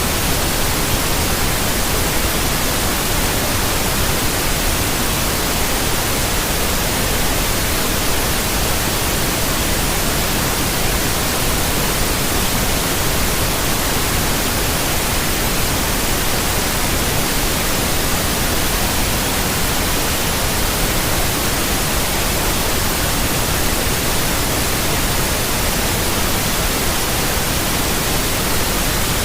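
Generated white noise: an even, steady hiss across the whole range of pitch, with no change.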